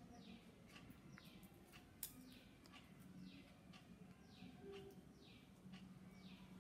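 Faint bird calling: a short, high chirp that falls in pitch, repeated about once a second.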